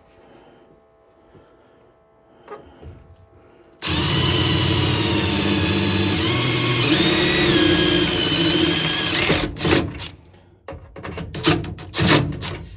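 Power drill running for about five seconds, its motor whine dipping and shifting in pitch partway through as the bit loads up, then stopping; a run of sharp clicks and knocks follows.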